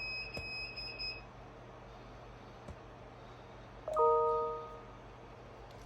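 A high electronic beep held for about a second, then about four seconds in a short chime of several tones that fades away, over a low steady hum.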